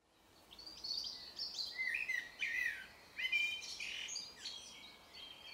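Birds singing and chirping: a busy mix of short warbled phrases and quick calls, fading in over the first second and tapering off toward the end.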